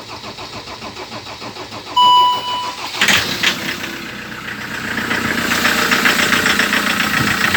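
Short beep, then the Land Rover Defender 2.4 TDCi four-cylinder diesel starts about three seconds in and settles into idle. A fast, even rattle runs through the idle: the same rattle the old engine had. The owner suspects the high-pressure fuel pump or its regulator valve, or the ECU.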